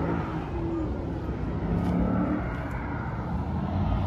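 Car engines running with a low rumble, their pitch drifting up and down a little.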